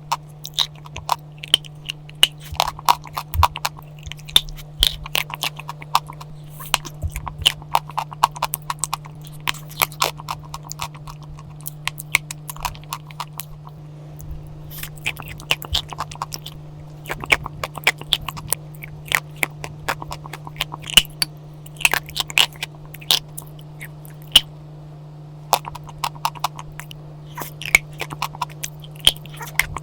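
Chalk being bitten and chewed close to the microphone: repeated sharp crunches in clusters with short pauses, over a steady low hum.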